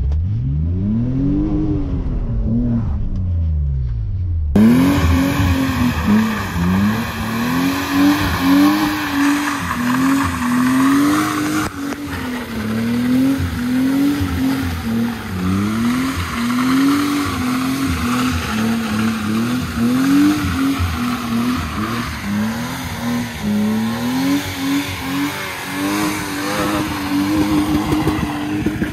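BMW E28 saloon's engine revving up and down again and again as the car slides round in circles on wet tarmac, with the spinning tyres hissing on the wet surface. For the first few seconds it is heard muffled from inside the cabin, one rise and fall in revs; after that it is heard from outside the car.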